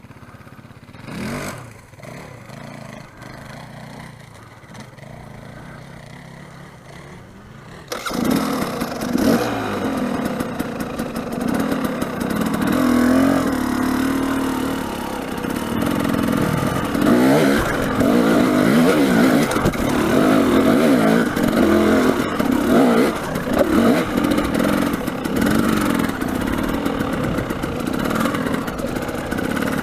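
Dirt bike engine, faint at first, then from about eight seconds in running loud and revving up and down repeatedly as the bike is ridden up a rocky climb.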